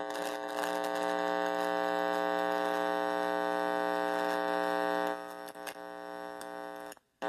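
Guitar amplifier with bare wires plugged into its input, putting out a steady electrical buzz with scattered clicks and crackles. The buzz drops in level about five seconds in and cuts out near the end.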